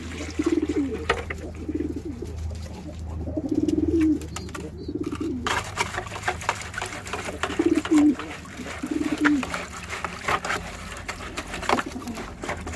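Pigeons cooing again and again, each coo a low, throbbing call, with a pause of a few seconds midway. Scattered sharp clicks and taps run through the second half.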